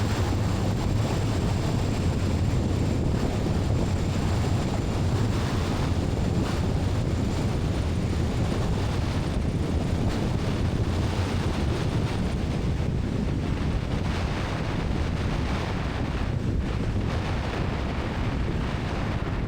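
Steady cockpit noise of a light airplane's piston engine and rushing air during a gusty crosswind landing, with a low hum under a constant hiss.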